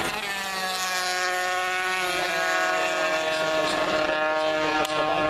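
Classic racing motorcycle engine running at speed on the circuit. Its pitch drops over the first second, then holds fairly steady. A short click comes near the end.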